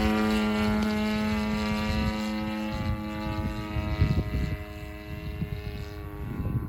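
DLE 30 single-cylinder two-stroke gasoline engine of an RC model biplane running at a steady pitch, then growing fainter from about halfway through as the plane flies off. Wind buffets the microphone.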